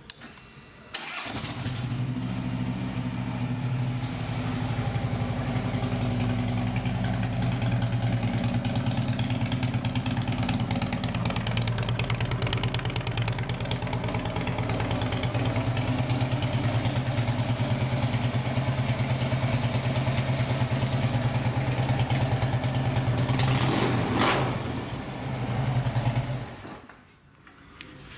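2012 Harley-Davidson Road King's 103-cubic-inch fuel-injected Twin Cam V-twin, through fishtail pipes, starting about a second in and idling steadily. Near the end the level rises briefly before the engine is shut off and cuts out suddenly.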